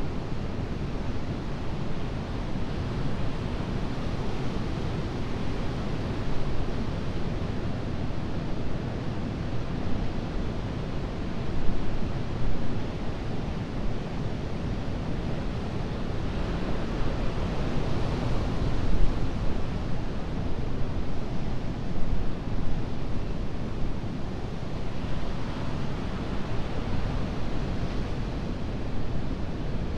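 Ocean surf breaking on a beach: a continuous wash of waves that swells louder at intervals as breakers come in, with some wind on the microphone.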